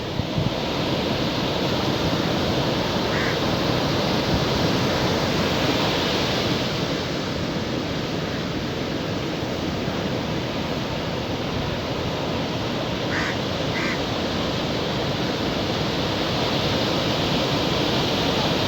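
Sea waves washing onto a beach as a steady rushing surf that swells and eases. Three brief faint sounds cut through it, one about three seconds in and two close together later on.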